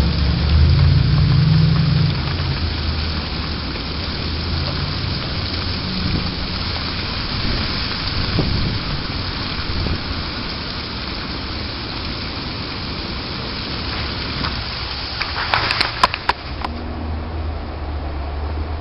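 Steady hiss of a winter storm, wind and falling ice or snow, with low rumbling wind buffeting the microphone in the first couple of seconds and again near the end. A brief burst of sharp crackles comes near the end.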